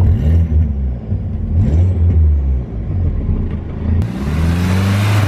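VW Lupo track car's turbocharged 1.8-litre 20-valve four-cylinder engine idling, its revs briefly rising a few times. A loud hissing rush comes in suddenly about four seconds in. The exhaust flexi pipe is holed.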